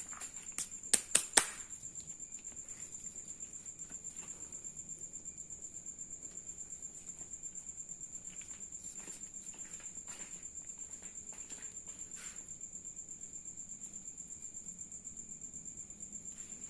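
Crickets chirping in a steady, rapidly pulsing high trill. Four short sharp taps come about a second in.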